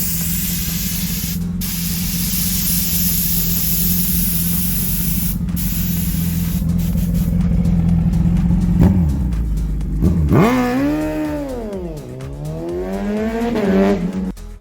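Suzuki Hayabusa's inline-four engine: a steady drone with hiss, then from about nine seconds in the revs drop, climb, fall and climb again.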